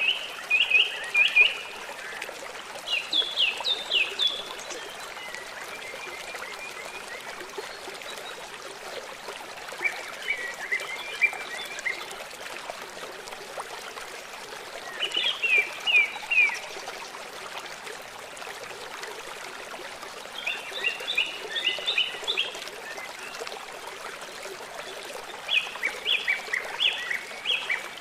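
River water running steadily, with a songbird singing short phrases of quick repeated chirps. The phrases come about every five seconds, six times in all.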